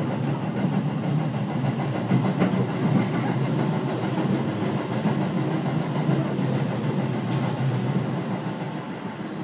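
Seibu 4000 series electric train running along the line, heard from inside the car: a steady rumble of wheels and running gear on the rails.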